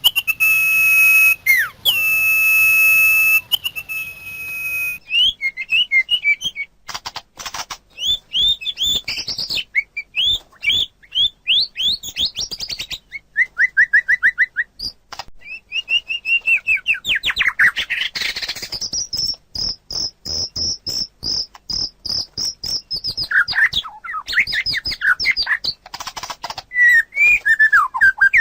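Common iora and white-rumped shama singing. A long steady whistled note comes first, then a fast, varied run of chirps, trills and quick whistled slurs, with a rapid string of high repeated notes about two-thirds of the way through.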